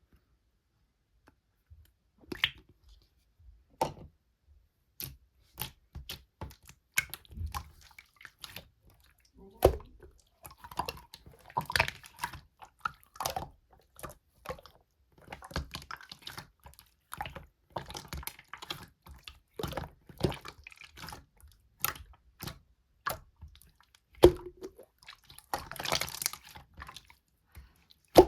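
Slime being handled: pressed, poked and squished by hand, giving irregular sticky clicks and small pops. Sparse at first, it grows busier about ten seconds in.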